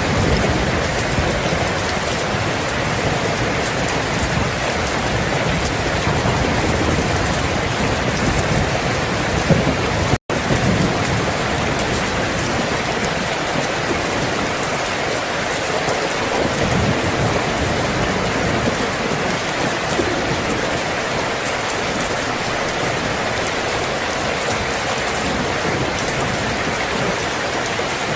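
Steady, heavy rainfall: a continuous even hiss of rain, with a split-second gap about ten seconds in.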